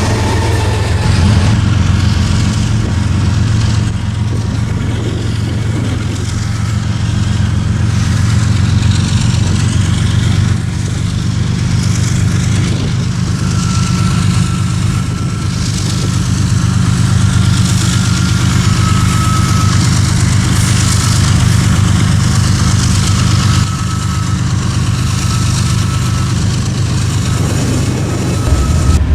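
Diesel locomotive engine running steadily with a deep, even rumble, and a faint high tone that comes and goes through the middle.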